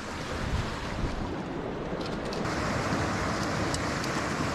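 Steady rush of creek water with wind buffeting the microphone.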